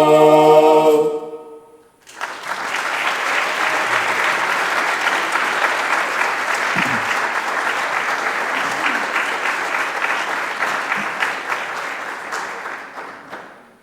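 A vocal ensemble's final held chord dies away about a second in. After a brief pause the audience applauds, and the clapping thins out and stops near the end.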